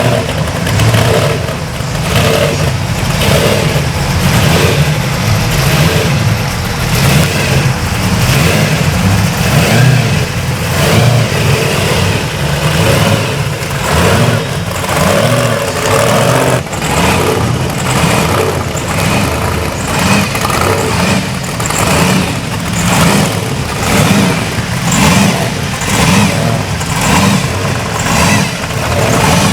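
Vehicle engine running and revving, its sound swelling and falling roughly once a second.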